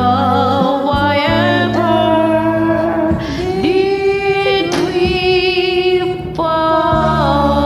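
A woman singing long held notes with vibrato over a karaoke backing track.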